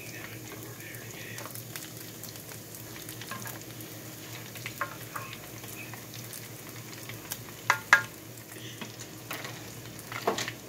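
Chicken nuggets frying in hot oil, a steady sizzle, with a few sharp knocks, the loudest about eight seconds in and again near the end.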